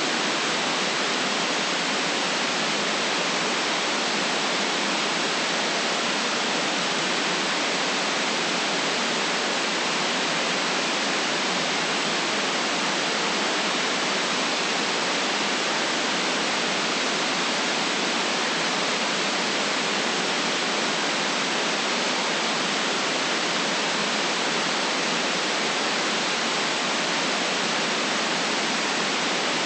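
Steady white noise: an even, unchanging hiss with the deepest lows and highest highs cut away.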